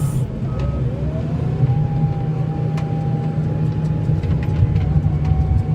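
A vehicle engine running steadily under load, with a whine that rises about a second in, holds, and steps down near the end, and scattered light clicks.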